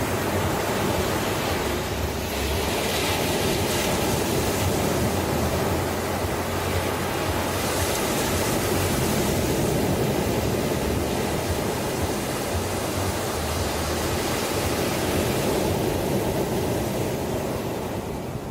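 Ocean surf washing continuously on the shore, a steady rushing hiss that swells gently and eases off near the end.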